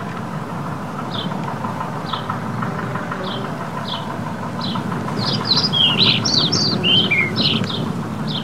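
A small bird chirping over and over, about two short chirps a second, with a busier run of chirps in the second half, over steady background noise.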